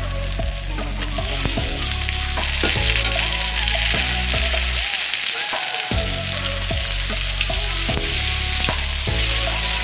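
Garlic, onion and tomato sizzling steadily in oil in a stainless steel pan, with a utensil clicking and scraping against the pan as it is stirred.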